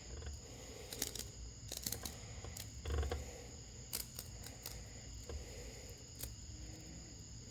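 Faint scattered clicks and light rustling from fingers handling a cicada and picking spider webs off it, with a slightly louder rustle about three seconds in.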